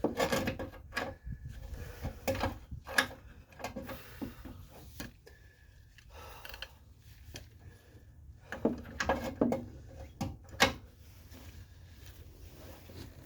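Hand tools working a seized front control-arm bolt on a Kia Sportage: irregular clicks and clunks, bunched near the start and again around nine to ten seconds in. The bolt is turning the whole control arm, which springs back instead of letting the bolt come loose.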